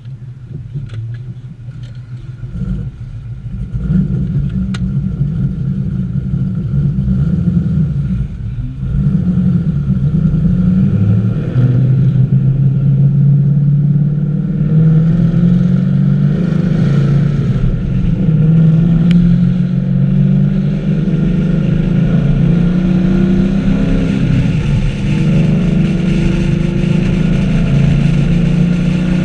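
2014 Camaro 1LE's 6.2-litre V8 accelerating under load, its note climbing in pitch and dropping back at each gear change. It grows louder about four seconds in and again near nine seconds.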